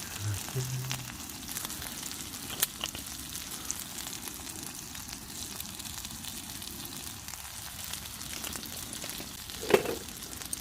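Wood campfire crackling and hissing steadily, with scattered sharp pops. A single short knock comes near the end.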